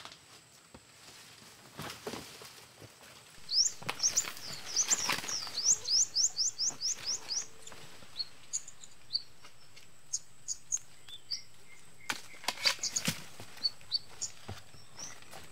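A bird calling a quick run of rising chirps, about four or five a second, then scattered single chirps. Several brief rustles and knocks from someone moving through undergrowth and handling dirt.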